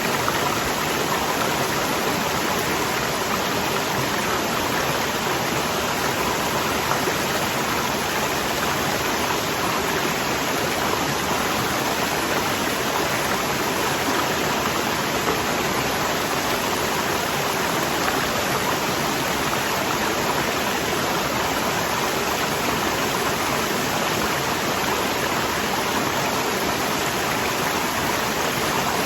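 Waterfall rushing: a steady, unbroken roar of falling water, even in level throughout.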